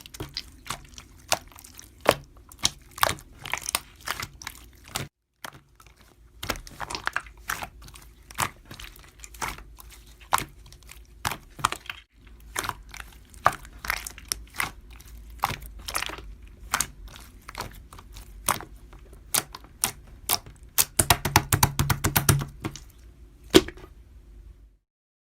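Irregular sharp clicks and taps on a hard surface, about one or two a second, with a quick dense flurry near the end before the sound cuts off abruptly to silence.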